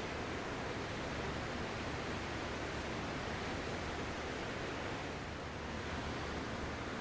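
Ocean surf washing steadily, a continuous hiss with no single wave break standing out.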